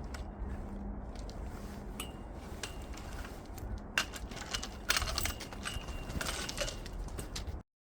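Light clinks and rattles of small hard objects being handled, a few of them ringing briefly, over a steady low background rumble. The clinks are busiest from about four seconds in, and the sound cuts off suddenly just before the end.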